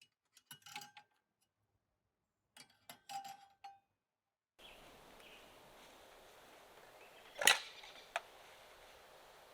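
Small clicks and light knocks of objects being handled, some with a short ringing clink, in two brief clusters. A faint steady hiss sets in about halfway through, then one sharp knock and a smaller one follow.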